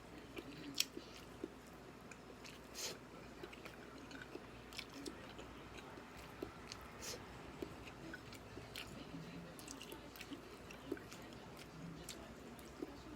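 A person chewing and biting food close to the microphone: a run of short wet smacks and crunchy clicks at an irregular pace, with a sharper crunch about a second in and another near three seconds.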